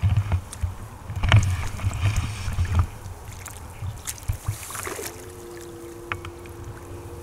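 Hooked barbel splashing at the surface close to the bank as it is played in, in irregular heavy bursts over the first three seconds. About five seconds in, a pair of steady held notes comes in, the start of background music.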